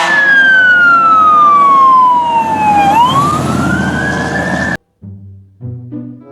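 Emergency vehicle siren wailing: one slow fall in pitch over about three seconds, then a rise back up, before it cuts off suddenly. A few low musical notes follow.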